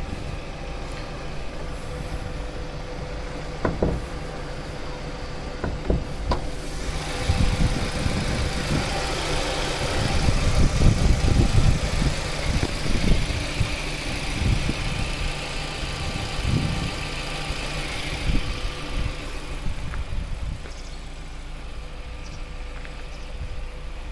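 A 2009 Hyundai Coupe's engine idling steadily, heard from inside the cabin, with a few sharp knocks in the first several seconds. A rushing noise swells in the middle for about twelve seconds, then dies away.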